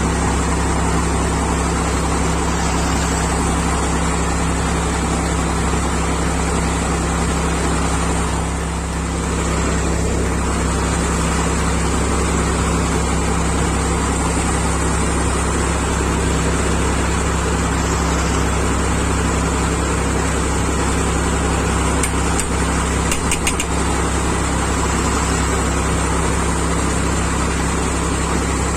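Tractor engine running steadily at an even speed while threshing paddy. There is a brief dip in level about nine seconds in and a few sharp clicks near the end.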